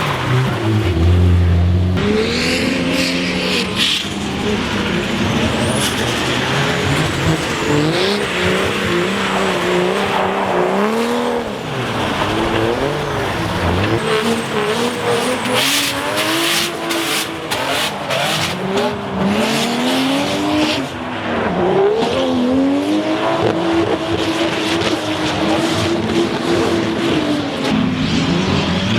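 Drift cars' engines revving hard, their pitch rising and falling again and again as the drivers work the throttle through a slide, over a steady hiss of tyres on a wet track.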